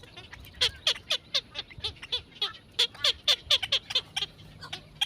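Birds chirping: a quick run of short, sharp calls, each sliding down in pitch, coming in irregular clusters of several a second.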